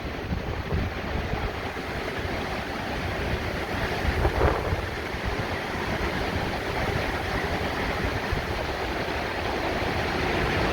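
Hurricane-force wind gusting steadily, rushing through trees and buffeting the microphone, building a little toward the end.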